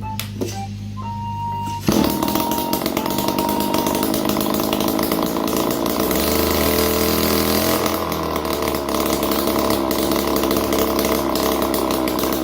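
Small two-stroke engine of a Kioritz SRE2350G brush cutter running, coming in suddenly about two seconds in, with its pitch shifting around the middle. It runs after its carbon-clogged muffler has been cleaned, the fault that had made it rev poorly.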